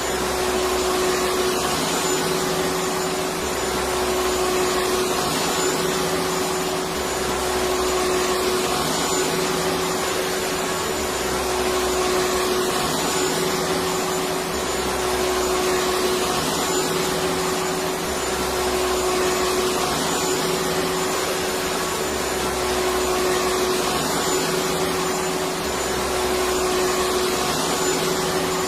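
Electric vacuum cleaner running steadily: a constant rush of air with a steady motor whine, unchanging in level.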